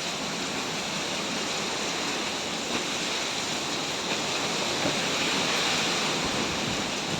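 Hurricane wind driving heavy rain: a steady rushing hiss, with a few faint ticks.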